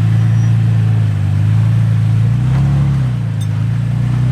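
An off-road vehicle's engine pulls steadily under load. It revs up briefly about two and a half seconds in, then settles back.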